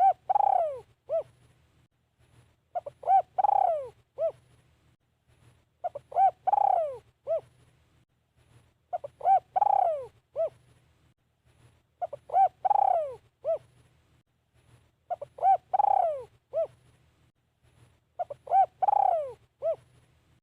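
Spotted dove cooing its decoy call, the same phrase about every three seconds: a couple of short notes, one long falling coo, then a short closing note.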